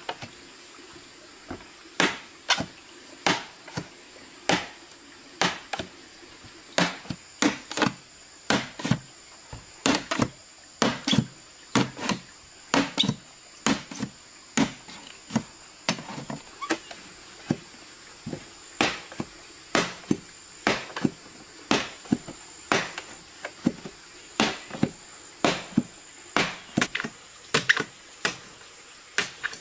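A blade chopping, with sharp strikes about once or twice a second at an irregular pace. A faint steady high tone runs underneath.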